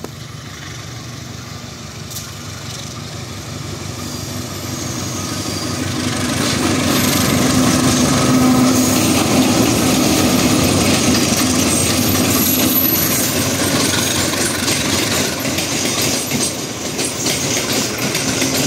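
Train running by: its rumble builds over the first six seconds or so, then stays loud and steady.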